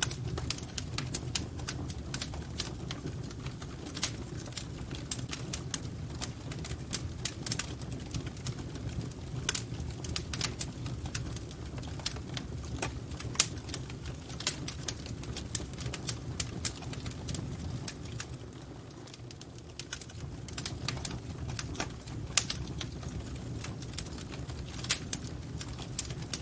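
Fireplace fire crackling: irregular sharp pops and snaps over a low steady rumble, with a louder pop about 13 seconds in and another near 22 seconds.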